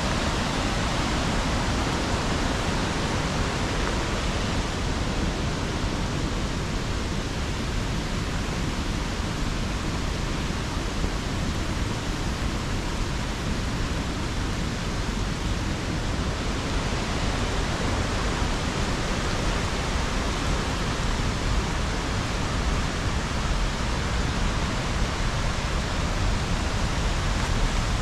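Small waterfall on a river, its water rushing in a steady, even wash.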